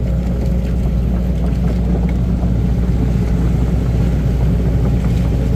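Loader's engine running steadily under load as the machine pushes through soft mud, a constant low drone.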